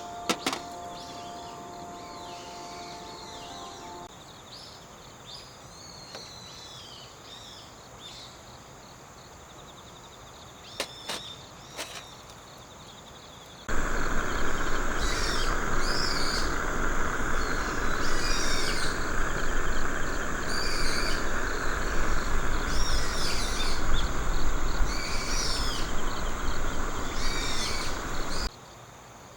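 Insects chirping in a steady high chorus with repeated short chirps. A loud, steady rushing noise starts abruptly about halfway through and cuts off near the end; a few faint clicks come before it.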